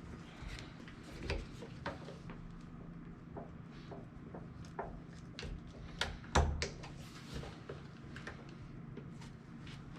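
Scattered clicks and knocks of heavy 4/0 URD electrical cables being handled and their ends pushed together, the loudest pair of knocks about six seconds in. A steady low hum runs underneath.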